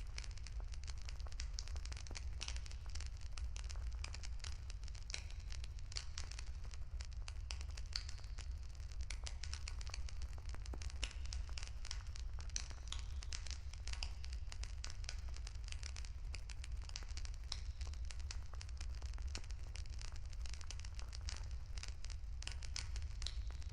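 Wood campfire crackling: dense, irregular pops and snaps over a steady low rumble.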